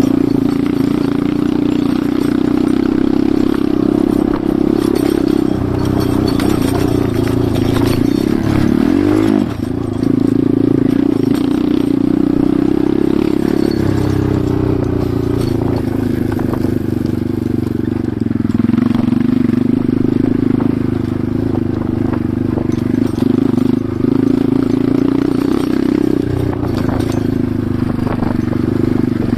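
Enduro motorcycle engine running steadily under way. Its pitch shifts up and down with the throttle, with a quick dip and climb about nine seconds in.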